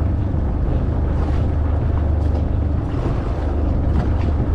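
Steady low rumble of a boat at sea, with wind buffeting the microphone and water noise.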